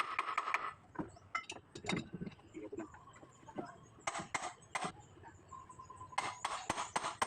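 Metal tools and parts clinking and tapping in irregular clusters of sharp clicks.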